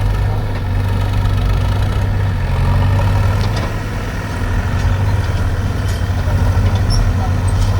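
Heavy diesel engine running steadily at a low idle, with a deep even throb.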